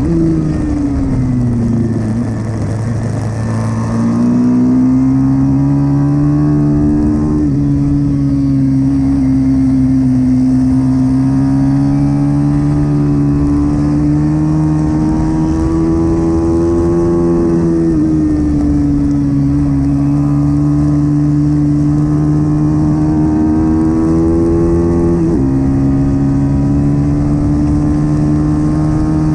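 Pit bike engine running hard under racing throttle, its revs dipping and climbing through the laps, with sudden drops in pitch a few times.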